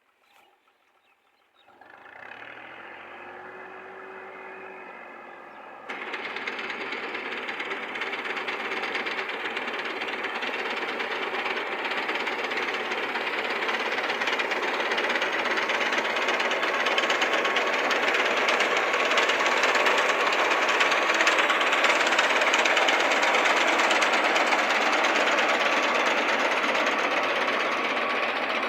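Tractor engine starting about two seconds in, then running much louder from about six seconds in with a steady, knocking clatter.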